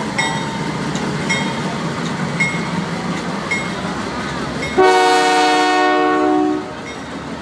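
Canadian Pacific Holiday Train rumbling along the track, with a short ringing note repeating about once a second. About five seconds in, the locomotive sounds one long blast of its multi-note horn, which cuts off sharply after about two seconds and is the loudest sound.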